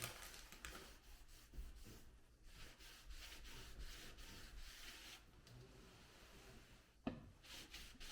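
Faint, repeated rubbing strokes of a cloth working stain into wood, with a sharp knock about seven seconds in.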